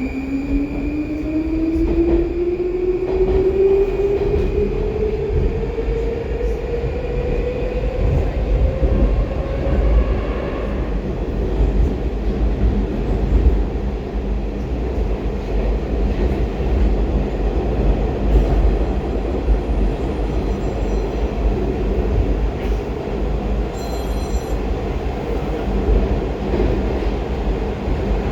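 Baltiets metro train running in the tunnel, heard from inside the car: the traction drive whine rises steadily in pitch over the first ten seconds as the train gathers speed, then gives way to a steady loud rumble of wheels and running gear.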